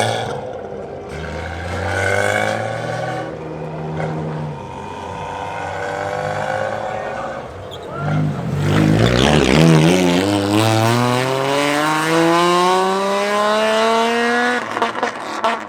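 Car engine revving hard, with a few uneven revs at first. About eight seconds in, one engine note climbs steadily for several seconds as the car accelerates, then drops off near the end.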